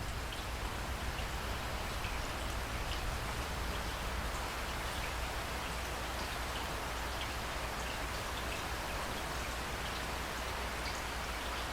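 Steady rain falling, with many individual drops ticking against a surface over a low, steady rumble.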